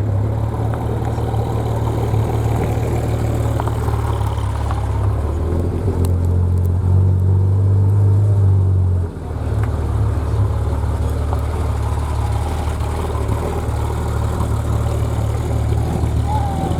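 A car engine running close by: a steady, low engine drone that changes note about five seconds in and again about nine seconds in.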